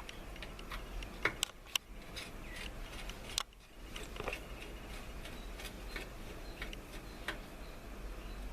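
Scattered light clicks and taps of metal parts and tools being handled on the compressor motor, over a faint low hum.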